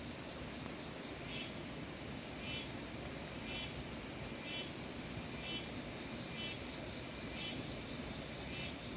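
An animal call, a short note repeated about once a second, over a steady high-pitched insect drone.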